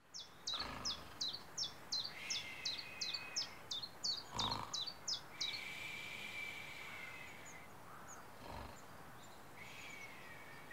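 Birdsong: a bird repeats a short, high, down-slurred chirp about three times a second for the first five seconds or so. Under and after it comes a steadier, lower whistled note that stops and starts, then a few scattered chirps.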